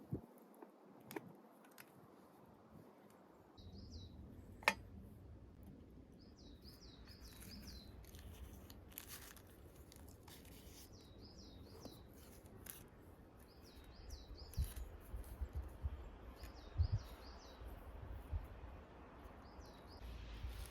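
A small bird calling over and over in short, high, warbling chirp phrases every second or two, over a low rumble. A sharp click comes about five seconds in.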